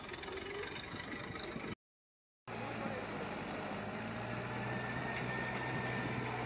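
Diesel tractor engine running steadily as the tractor climbs a ramp. The sound cuts out completely for under a second about two seconds in, then a tractor engine resumes with a steady low drone.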